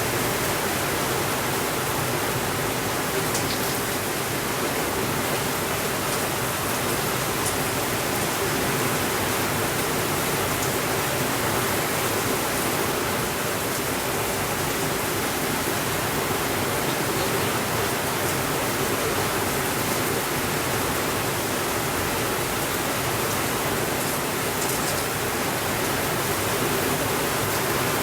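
Steady rainfall, an even hiss with no let-up, with a few faint ticks now and then.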